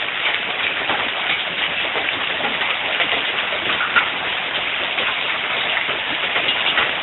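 Quarter- to golf-ball-sized hailstones pelting down in a dense, steady clatter of countless small hits, with one sharper hit about four seconds in. Heard through a cell phone's microphone.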